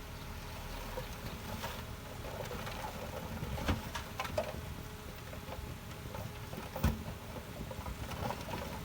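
Heavy earthmoving machinery at work: a steady low rumble with a few scattered knocks, the loudest thump near the end.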